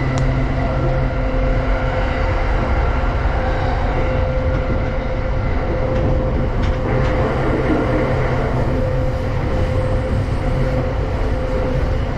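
A JR East Tokaido Line commuter train heard from inside the carriage, running at a steady speed. The wheels keep up a constant rumble on the rails, with a steady electric hum above it.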